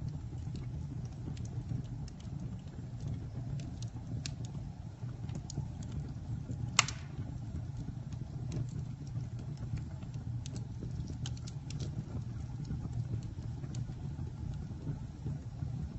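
Campfire burning: a steady low rumble with scattered crackles and one loud pop about seven seconds in.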